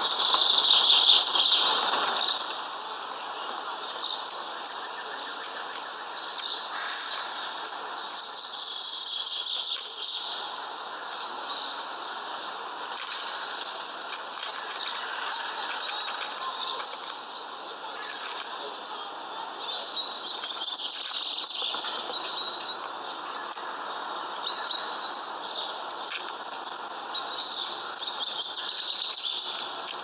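Small songbirds chirping and calling in short, high-pitched bursts again and again, loudest in the first two seconds.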